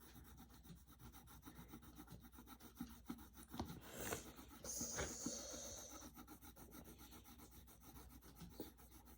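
Faint scratching of a coloured pencil colouring on paper in quick short strokes, with a few louder scrapes about four to five seconds in.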